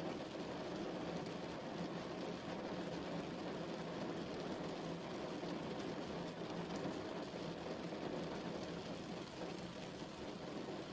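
Steady rain falling, an even wash of noise heaviest in the low-middle range, with fine drop ticks through it.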